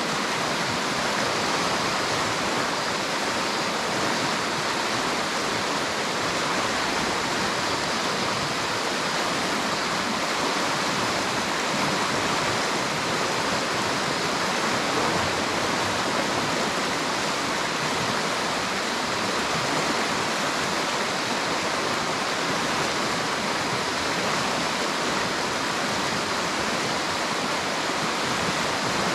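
River water flowing, a steady even rush with no change throughout.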